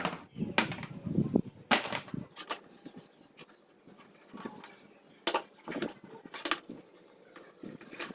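Irregular knocks and clicks, about a dozen, loudest in the first two seconds and sparser after that, over a low rumble that dies away about two seconds in.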